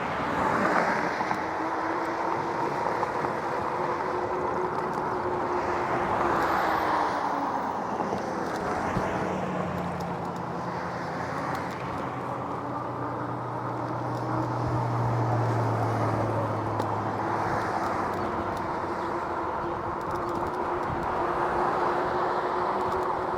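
Riding noise from a Lectric e-bike under way: a steady electric hub-motor whine over wind and tyre noise, the whine's pitch dipping briefly and then recovering. A lower engine hum from a motor vehicle comes in about a third of the way through and fades out several seconds later.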